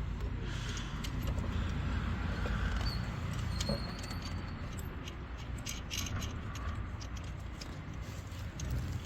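Metal hand tools and engine parts clinking in short sharp clicks over a steady low rumble of workshop background noise, as bolts are fitted and tightened during engine reassembly.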